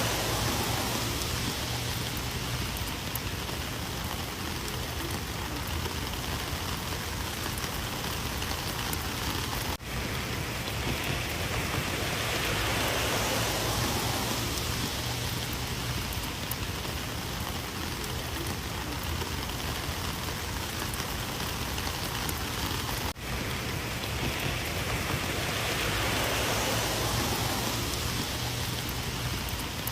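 Rain falling steadily, an even hiss of drops on surfaces that slowly swells and eases every dozen seconds or so, with two momentary dropouts, about a third and two thirds of the way through.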